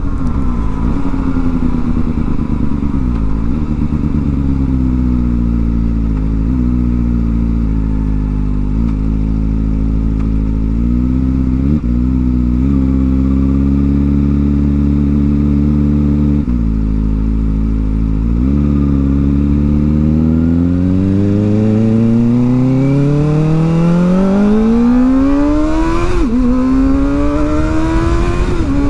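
Kawasaki Ninja ZX-4R's inline-four engine on the move through a newly fitted aftermarket exhaust. The engine note holds fairly steady with several brief dips as gears change. From about two-thirds through, the revs climb for several seconds under hard acceleration, then drop sharply once near the end and start climbing again.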